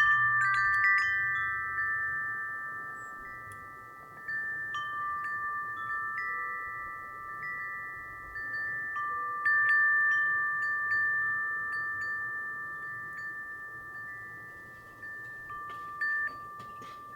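Wind chime ringing in the breeze: clusters of clear, bell-like tones struck every few seconds, each ringing on and fading slowly before the next.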